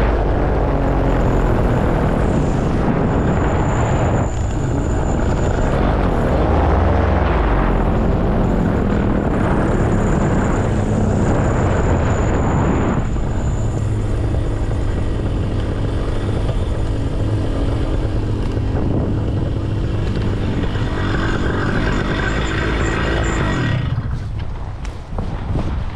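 Paramotor engine and propeller running in flight, mixed with strong wind rushing over the microphone. The sound shifts about halfway through and drops away near the end.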